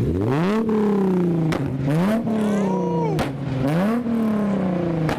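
Car engine revved three times, each rev climbing quickly and falling back slowly, with several sharp exhaust pops cracking between the revs.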